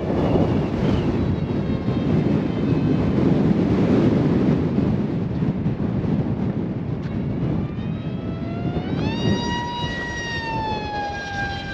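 Loud low rushing noise of strong wind on the microphone. From about nine seconds in, the ZOHD Alpha RC plane's electric motor whine rises in pitch, holds, then slowly drops as the plane passes.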